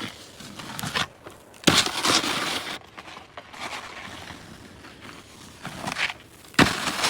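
Snowboard sliding and scraping over packed snow in noisy surges, loudest about two seconds in and again near the end.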